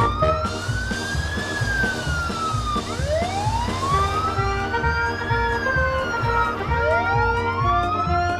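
Police-style wail siren, its pitch slowly rising and then falling, repeating about every four seconds, twice in full, over background music with a steady beat.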